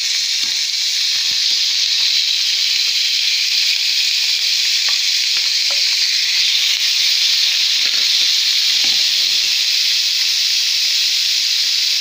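Diced raw chicken frying in hot vegetable oil in a pan: a loud, steady sizzle, with a few faint knocks of a wooden spatula pushing the pieces in.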